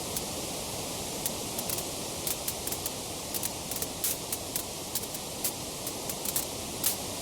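Wood fire crackling: a steady hiss of burning with frequent irregular sharp pops and snaps, the loudest one near the end.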